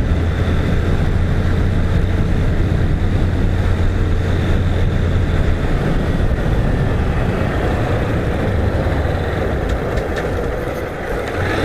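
Motorcycle riding at road speed: a steady engine drone under constant wind rush on the microphone. The low drone eases off about halfway through.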